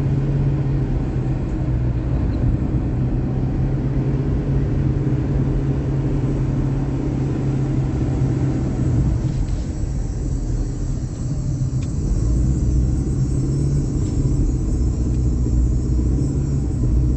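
Steady low rumble of a running motor vehicle, with a constant low hum under it.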